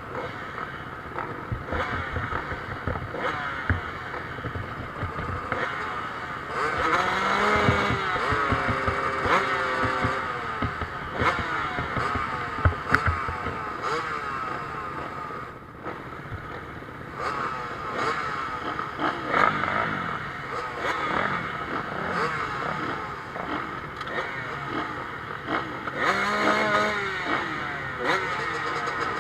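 Motocross bikes racing on the track, their engines revving up and dropping back as they pass. Two passes are the loudest: one about a quarter of the way in and one near the end.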